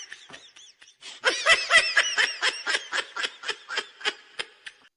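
A man laughing, a run of short pulses about four a second that fade out near the end.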